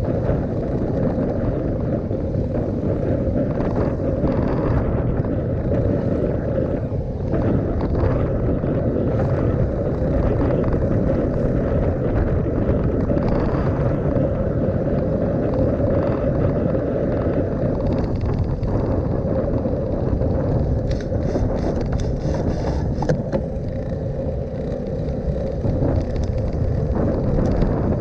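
Steady wind buffeting and road rumble on the microphone of a camera riding along on a bicycle, with a run of short clicks about three-quarters of the way through.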